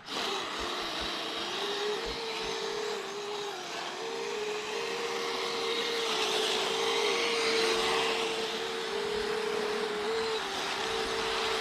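Twin brushless electric motors of a Kyosho Blizzard 2.0 RC snow tractor whining as it drives over snow, two close steady tones from the two track motors, the lower one dipping in pitch several times as the load changes, over a steady hiss.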